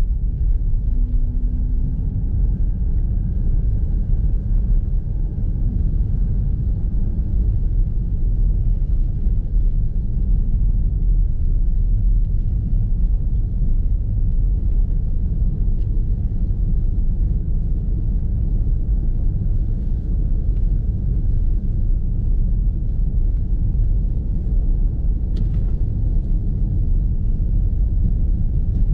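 Steady low rumble of a car driving on a snow-covered road, heard from inside the cabin, with a faint click about 25 seconds in.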